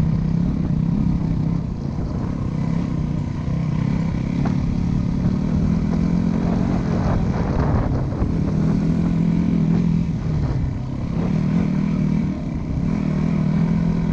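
Dirt bike engine running, its note rising and falling with the throttle, with a stronger, rougher stretch about halfway through.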